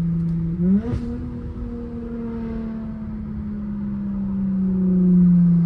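Dodge Charger's 3.6-litre V6 engine pulling under way, its note jumping up in pitch about a second in, then holding and slowly sinking while it grows a little louder toward the end.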